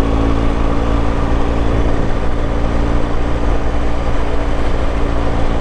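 Motorcycle engine running at a steady cruising speed, under a constant rush of wind and tyre noise on a gravel road.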